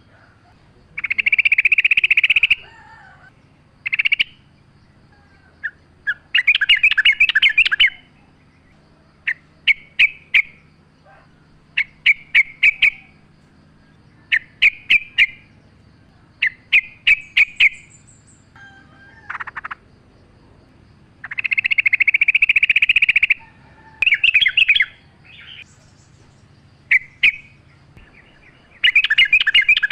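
Yellow-vented bulbul (trucukan) singing: a series of short, bubbling chattering phrases with brief pauses between them, a few longer runs of about a second and a half among them.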